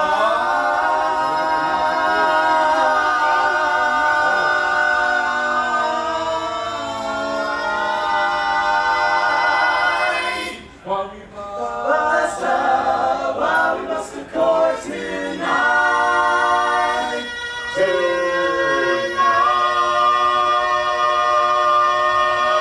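An a cappella vocal group singing in close multi-part harmony, with long held chords. About ten seconds in there is a brief break, then a quicker, choppier passage before the held chords return.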